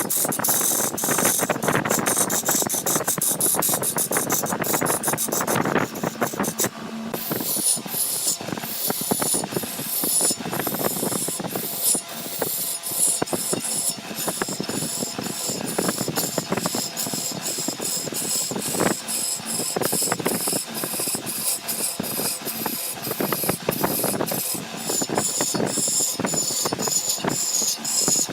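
Woodworking machinery running with a dense, uneven clatter of rapid clicks over a steady hiss; the sound changes character about seven seconds in.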